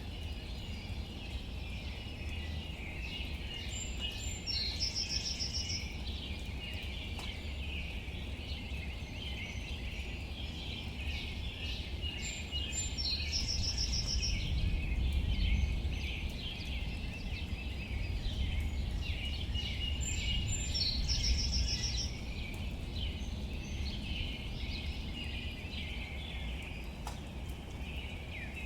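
Outdoor rain ambience, a steady hiss of rain on leaves under a low rumble, with birds chirping throughout. One bird repeats a short trilled phrase about every eight seconds.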